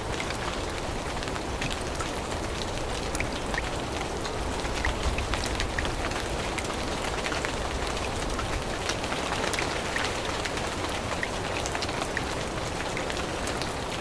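Steady rain falling through forest leaves, with many separate drops ticking close by over the even hiss of the downpour.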